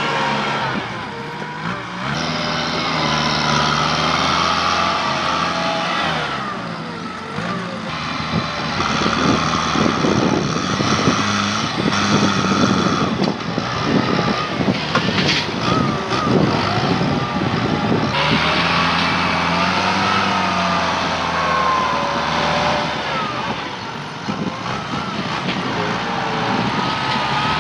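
Tractor diesel engine running under load, its pitch rising and falling as it works. Through the middle comes a long run of snapping and crunching, as brush and small trees break under the push.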